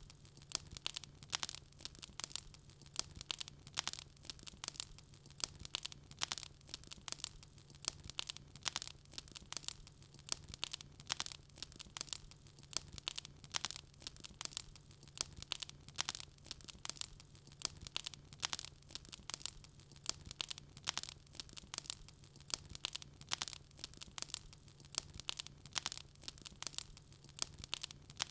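Burning wood fire crackling: a dense, irregular stream of sharp pops and snaps, with a faint steady low hum underneath.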